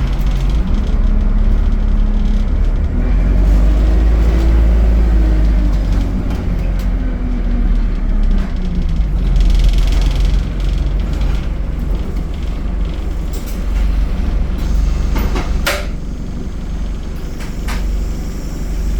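ADL Enviro 200 bus's diesel engine and Allison automatic gearbox under way, a deep rumble with a pitched tone that rises and falls as the bus pulls away and changes gear. A brief sharp sound stands out near the end.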